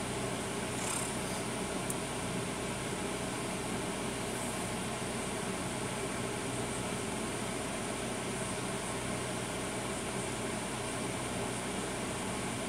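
Steady running noise inside a truck's cab while driving: a low engine hum under road noise.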